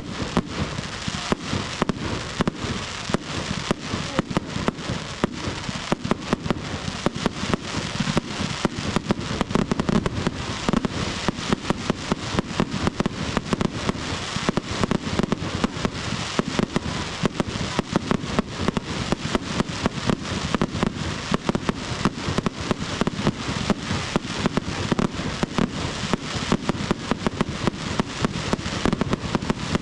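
Firework display in full swing: a dense, unbroken barrage of bangs and crackles, many per second.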